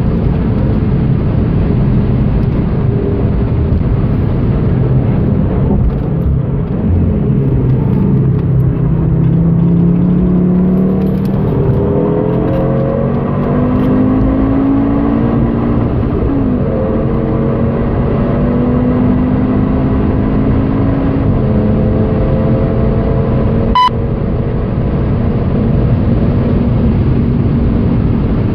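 Cabin sound of a 2013 Audi TT RS's turbocharged five-cylinder engine at speed, over heavy wind and road noise. In the second half the engine note climbs repeatedly in pitch under acceleration, dropping back at each upshift. A single short click sounds near the end.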